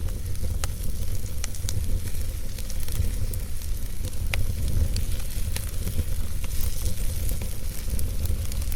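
Wood logs burning in a fireplace: a steady low rumble of the flames with a hiss, broken by scattered sharp crackles and pops from the burning wood.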